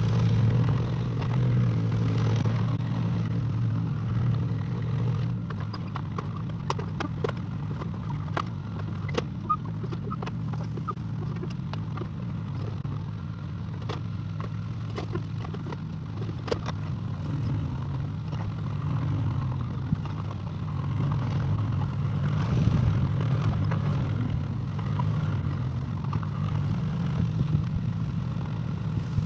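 Excavator engine running steadily, with a scatter of sharp clanks and knocks through the middle stretch.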